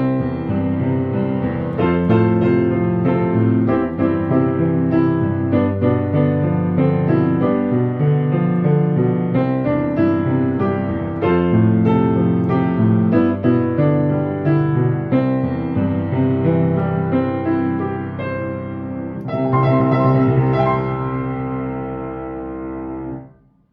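Solo piano playing a children's song arrangement with a full chordal texture. About nineteen seconds in, a loud final chord is struck and held, dying away until the sound cuts off at the end.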